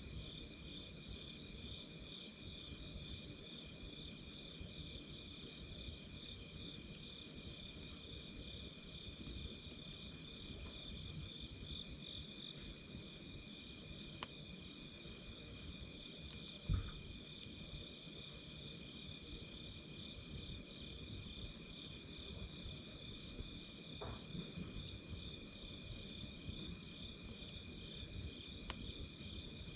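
Insects trilling in a steady, high, pulsing chorus over the low rumble of a campfire. Scattered crackles and pops from the burning wood come through, with one louder pop a little past the middle.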